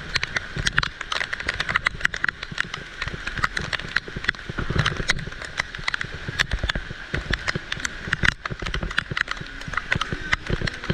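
Heavy rain, with dense irregular taps of drops striking close by over a steady hiss of falling water.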